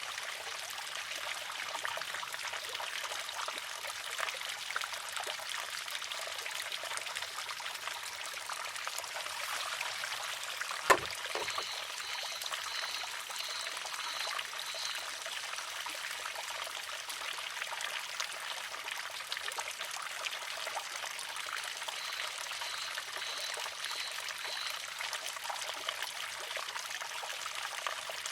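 Steady trickle of water running through a wooden, water-driven shishi-odoshi (sozu). About eleven seconds in, the filled arm tips over and strikes its rock once with a sharp clack.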